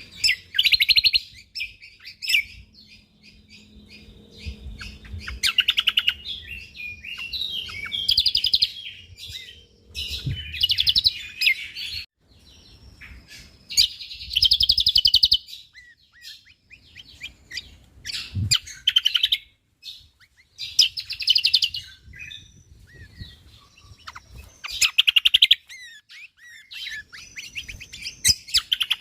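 Cucak kombok (kecial kombok) songbird singing: bursts of rapid, dense chirps and trills repeated every few seconds, with short pauses between phrases.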